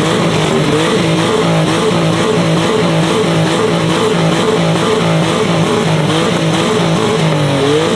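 A highly tuned car engine held at high revs, its pitch bouncing up and down about twice a second, in a continuous rev at a rev battle.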